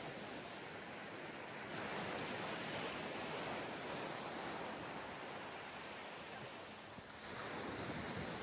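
Ocean surf breaking and washing onto a beach: a wave swells up about two seconds in and another near the end, with a brief lull between them.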